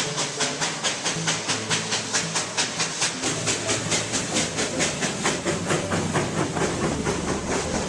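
Steam locomotive exhaust chuffing in a fast, even rhythm, about four or five beats a second, each beat a sharp hiss of steam. A deeper rumble builds under the beat near the end.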